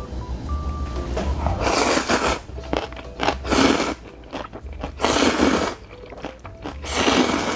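A person eating noodles close to the microphone: four loud bursts of slurping and chewing about a second and a half apart.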